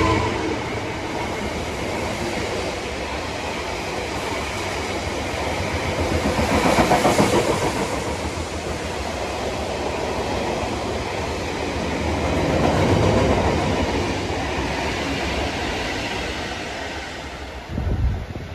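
Freight train wagons rolling past with the wheels clattering over the rail joints. The rumble swells twice as groups of wagons go by, and there is a short low thump near the end.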